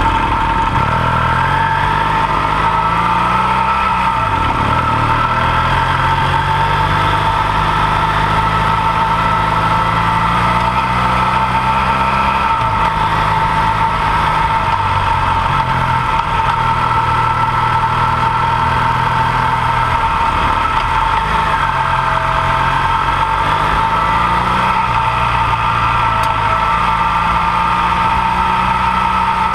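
Dual-sport motorcycle engine running under way on a gravel road, its pitch climbing and dropping several times as the rider accelerates and eases off. A steady high-pitched whine runs over the engine throughout.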